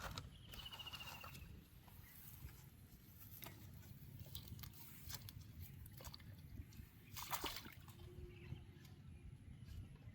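Faint water sloshing and dripping, with scattered small clicks over a low rumble. A short rapid high trill comes in the first second, and a brief louder rush about seven seconds in.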